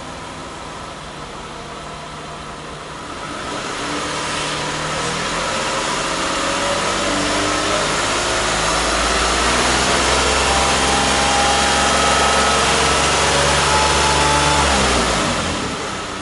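Toyota Alphard 350S's 3.5-litre V6 idling, then revved up steadily and held at high revs for about ten seconds, with the pitch still slowly climbing, before it drops quickly back to idle near the end.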